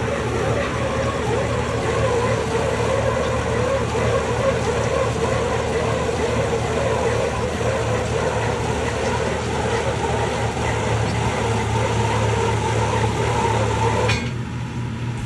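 Borewell drilling rig running steadily: a loud, continuous engine noise with a constant hum. Much of the higher noise cuts off suddenly about fourteen seconds in, while the low hum carries on.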